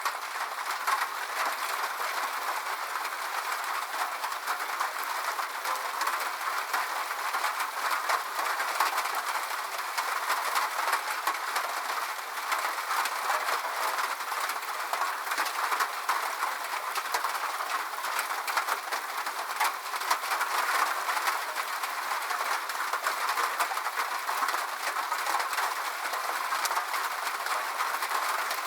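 Steady rain falling: an even hiss thick with small drop taps, with no low rumble.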